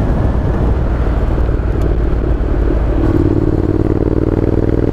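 Honda NC700X parallel-twin engine running steadily under way, heavy low rumble of engine and road noise, with a steady engine tone coming up about three seconds in.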